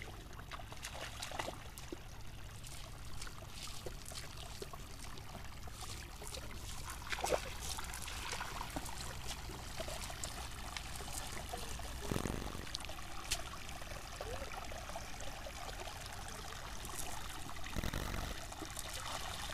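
Water trickling and pouring, with scattered small splashes and drips and two larger splashes at about 12 and 18 seconds.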